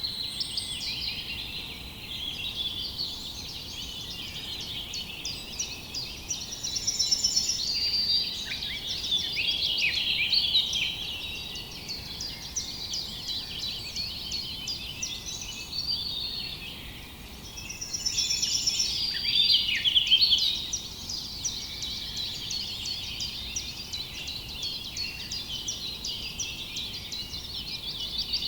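A dense chorus of many small birds chirping and trilling at once, with no let-up, swelling louder twice, about a quarter of the way in and again about two-thirds in.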